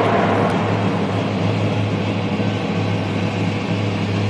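Car engine running at steady revs, a constant low hum with a hiss over it.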